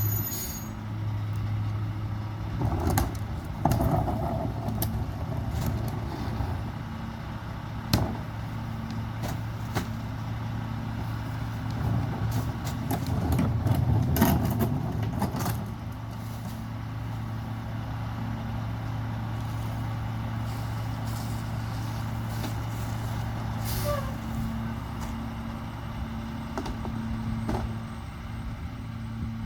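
Mack Granite McNeilus rear-loader garbage truck's diesel engine running steadily, with scattered knocks and clanks. There is one sharp knock about eight seconds in, and a louder clattering stretch about halfway through.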